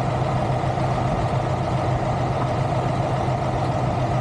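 Heavy diesel truck engine idling steadily, an even hum with no changes in speed.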